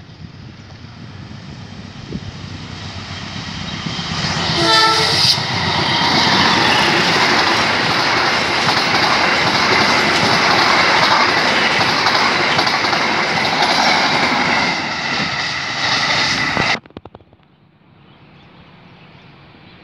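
CC201-class GE U20C diesel-electric locomotive approaching and sounding its horn briefly about five seconds in, then its passenger coaches passing close by in a loud, steady rush of wheel and rail noise. The sound stops suddenly about three seconds before the end, leaving a quieter steady background.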